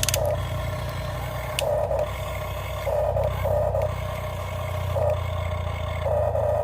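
Small electric gear motors of radio-controlled toy construction vehicles whirring in short spurts of half a second or so, over a steady low hum.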